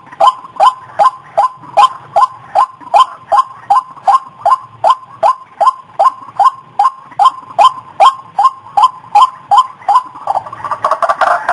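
White-breasted waterhen call played as a bird-lure recording: a steady run of short, repeated notes, about two and a half a second, each dipping slightly in pitch. In the last second the notes speed up into a faster, jumbled chatter.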